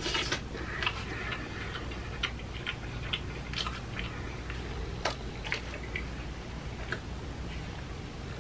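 Close-up chewing and lip-smacking while eating a glazed rib: irregular wet mouth clicks and smacks, a few every second, over a faint steady low hum.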